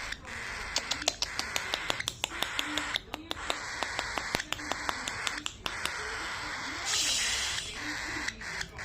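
A pet cockatiel chattering and calling harshly among many sharp little clicks, with a short, harsh, noisy burst about seven seconds in.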